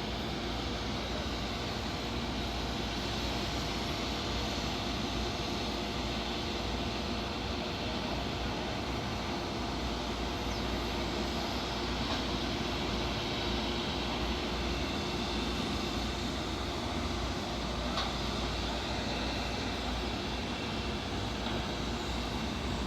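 Airbus A330 jet engines running steadily: a constant broad rumble with a few steady tones, holding the same level throughout.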